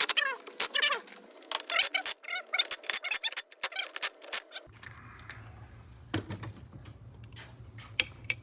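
Sharp clicks and clinks of small metal engine parts being handled over a faint voice or music, then, after an abrupt change, a steady low hum with scattered light taps.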